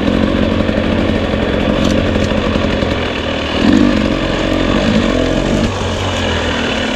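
Two-stroke enduro dirt bike engine running at low, steady revs on a slow technical trail, with a short throttle blip a little past the middle.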